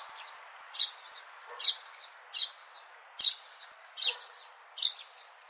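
Sparrow chirping: short, sharply falling chirps repeated at an even pace, about one every 0.8 seconds, over a steady background hiss.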